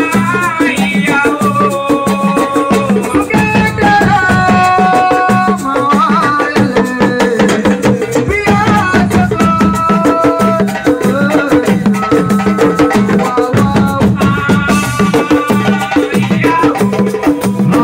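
Assiko band music: fast, dense drum and percussion rhythm with a held melody line over it.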